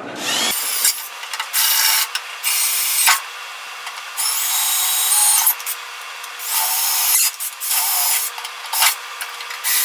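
Power drill drilling out rivets on a lawn mower's recoil starter, in about eight bursts of the bit grinding through the rivets. The motor's pitch rises as it spins up on the first burst, about a second in.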